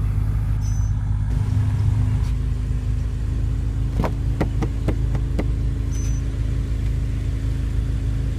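BMW M5 F10's twin-turbo V8 idling steadily, with a quick run of about six sharp clicks about four seconds in.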